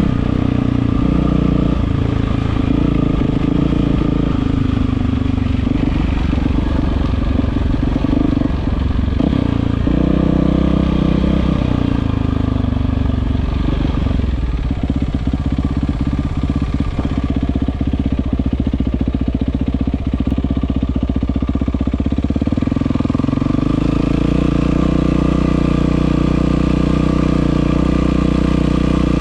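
Yamaha WR450F single-cylinder four-stroke engine running through an Akrapovič exhaust, its engine speed changing several times and rising a little past three-quarters of the way through.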